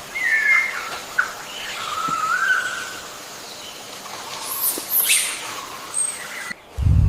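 A bird calling with short, wavering chirps in the first few seconds, then a brief low rumble near the end.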